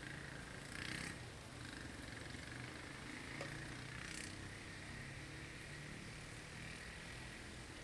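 Blizzard wind ambience: an even, faint hiss with a thin whistling tone over an uneven low rumble, swelling briefly about a second in and again about four seconds in.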